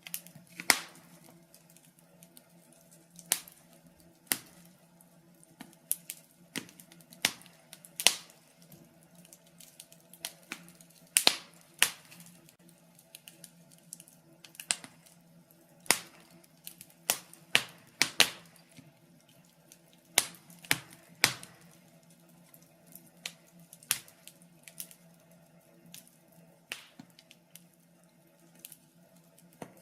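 Burning logs crackling in a fireplace: irregular sharp pops and snaps, some much louder than others, over a faint steady low hum.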